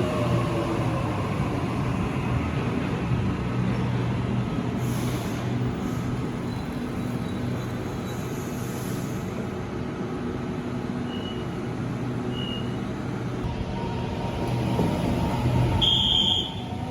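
Electric passenger train at a station platform: a falling whine as it slows at the start, then a steady low rumble, with two short high beeps in the middle and a stronger high beep near the end.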